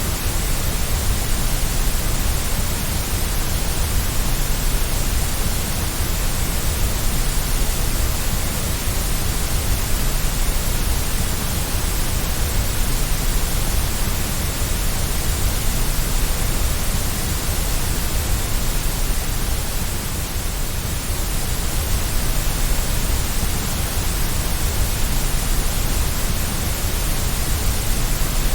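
Steady, unchanging white noise used as a baby sleep aid: an even hiss with a deep low rumble beneath it.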